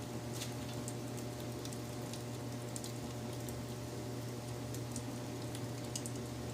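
Wood fire crackling: irregular sharp pops and snaps over a steady hiss, with a constant low rumble underneath.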